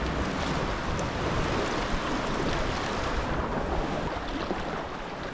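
Steady rush and slosh of sea water around a sea kayak being paddled close in among rocks and cliffs, with a little wind on the microphone; the hiss eases slightly after about three seconds.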